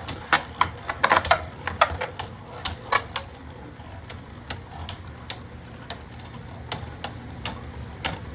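Two Beyblade Burst tops spinning in a plastic stadium, clacking against each other and the stadium wall in sharp clicks. The clicks come thick and loud for the first few seconds, then thin to a fainter, fairly even ticking, about two a second, as the battle winds down.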